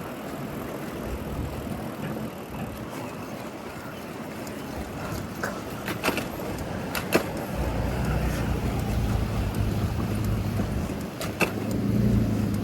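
City street traffic: cars passing, with a motor vehicle's low engine rumble coming in about halfway through and a few sharp clicks.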